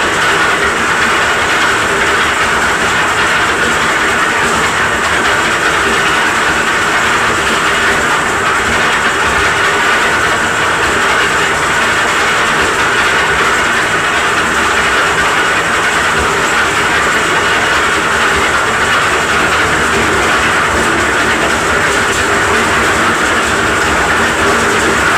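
Cement mixer running steadily while it works as a winch, hoisting concrete mix.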